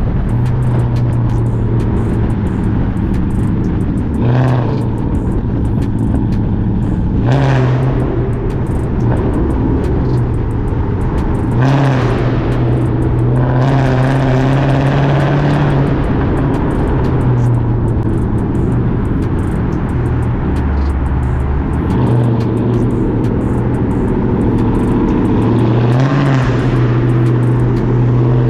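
Cammed, catless, straight-piped Chrysler 300C Hemi V8 exhaust running steadily while driving. It gives several short throttle blips and one longer rev in the middle.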